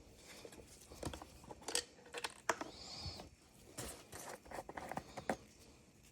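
Irregular light clicks and taps of small parts and hand tools being handled during a chainsaw repair, with a few sharper knocks.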